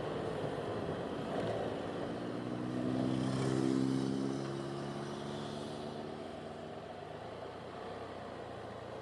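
A motor vehicle passing by: its engine hum swells to a peak about four seconds in, then fades away over a steady background rush.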